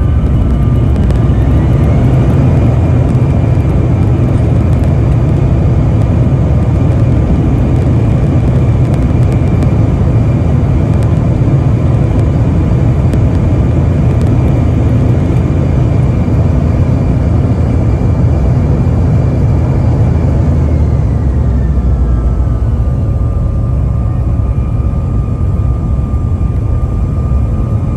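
Jet airliner engines heard from inside the cabin: a loud, steady rumble with high whines above it. One whine rises in pitch about two seconds in, holds, then glides back down about 21 seconds in.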